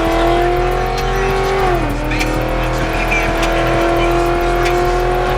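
Car engine revving hard, rising in pitch, dropping briefly about two seconds in, then held steady at high revs.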